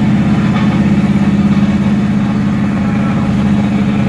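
Big-block V8 of a 1970 Chevelle SS 396 running at a steady cruise, heard from inside the car on the road: a steady low engine drone with a slight rapid pulse.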